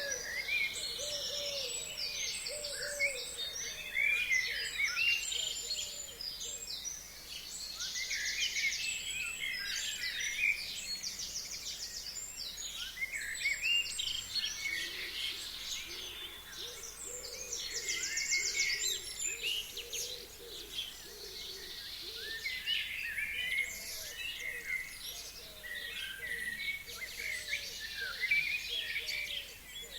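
Several forest songbirds singing together in spring: overlapping high chirps, whistles and fast trills, with a lower call repeated over and over underneath, at the start and again through the second half.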